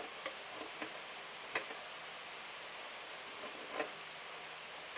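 A few faint, irregularly spaced clicks and taps of a small wrench working the nut that holds the new faucet cartridge, over a low hiss.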